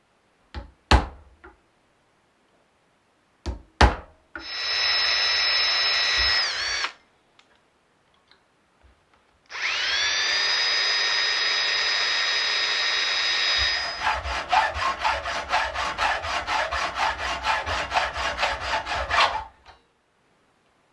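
Electric drill: a few clicks, then a short run that winds down, then a second run that rises to speed and holds, and turns into a fast pulsing of about five or six beats a second for several seconds, as if under load in wood, before it stops.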